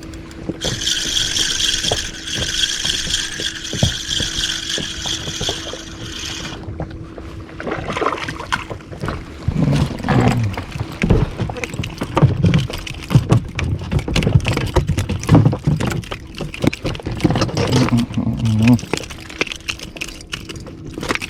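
A fishing reel's drag buzzes steadily for about six seconds as a hooked fish pulls line off. After that a man's voice comes in low, untranscribed bits over a faint steady hum.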